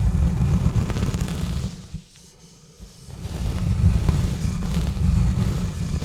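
Exfoliating gloves scrubbing and scratching directly on a bare microphone, a loud, deep, rough rubbing. It stops for about a second near the middle, then the scrubbing starts again.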